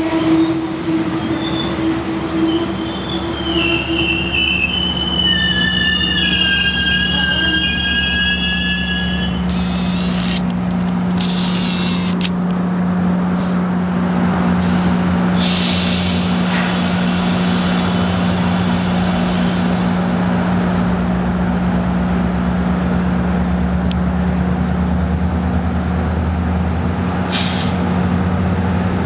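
MARC commuter train of bilevel passenger cars rolling slowly past, wheels squealing with several high-pitched squeals in the first few seconds. After that, a steady low drone from the train's diesel locomotive carries on, with a few brief rushes of noise.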